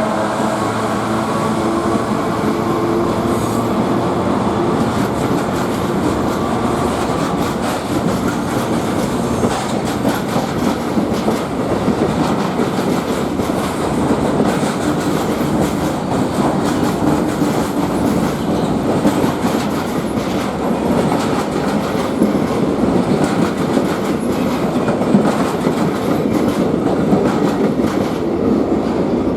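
A long train passing close by. A locomotive's engine note is heard at first and fades over the first several seconds, followed by a steady rolling rumble of the cars with wheels clicking over rail joints.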